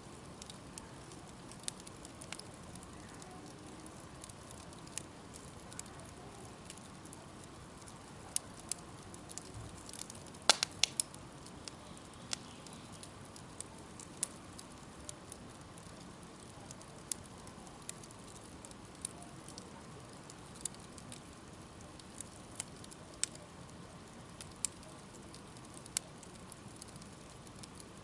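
Wood bonfire crackling: sharp pops a second or two apart over a low steady hiss, with a quick cluster of louder pops about ten seconds in.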